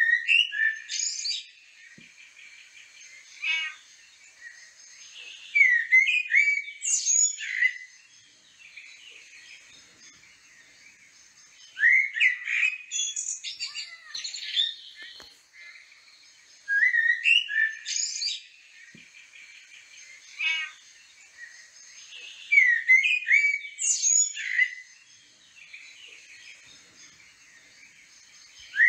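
Songbird singing: short phrases of quick rising and falling whistled chirps, repeated every five or six seconds, with a faint high hiss in between.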